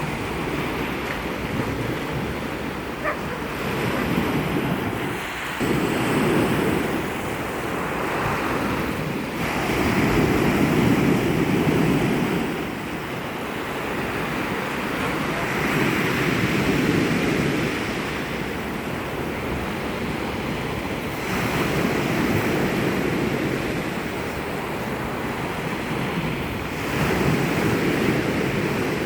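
Sea surf: waves breaking and washing ashore, the sound swelling and easing every few seconds, with wind buffeting the microphone.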